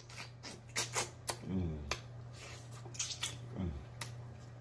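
Close-miked wet chewing and lip-smacking, many quick clicks and smacks as meat is bitten off a pork neck bone, with two short "mm" hums in the middle and near the end. A steady low electrical hum runs underneath.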